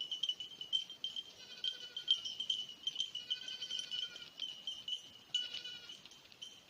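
Faint, irregular chiming of small bells over a steady high-pitched tone.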